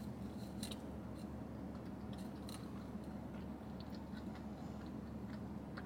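Quiet chewing of a mouthful of crispy chicken taco, with faint little crunches scattered through, over a steady low hum.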